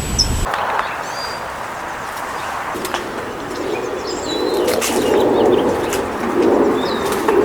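Pigeons cooing in low, repeated swells, with short high chirps from small birds scattered throughout.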